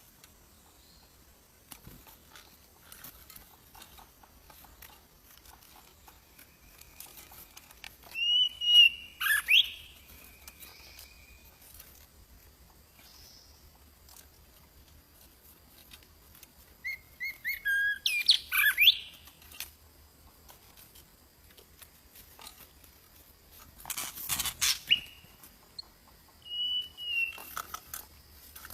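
A bird calling in short bursts of chirps and whistles, about four bursts several seconds apart, with quiet between.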